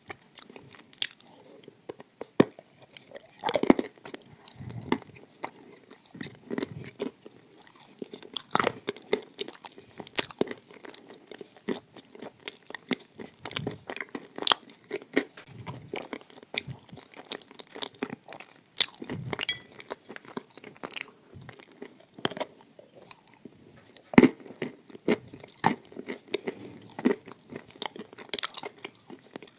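Close-miked biting and chewing of a hard, crunchy boat-shaped piece spread with white paste. Irregular sharp crunches come between quieter chewing, and the loudest bite falls about 24 seconds in.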